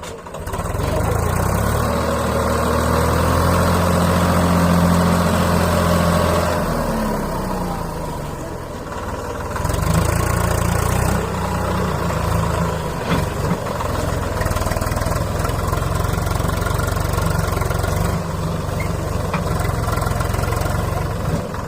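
Swaraj 744 FE tractor's diesel engine revved hard under load, straining to pull a loaded sugarcane trolley through mud. It holds high revs for several seconds, drops in pitch about seven seconds in, then picks up again about two seconds later and keeps working hard.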